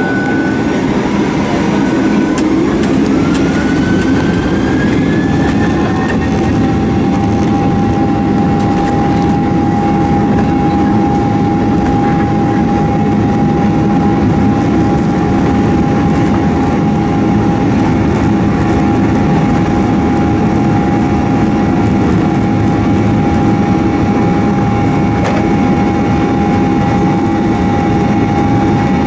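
Boeing 737-800's CFM56-7B jet engines heard from inside the cabin. Their whine rises in pitch over the first six seconds or so as they spool up toward takeoff thrust, then holds at a steady pitch under a loud, steady rumble.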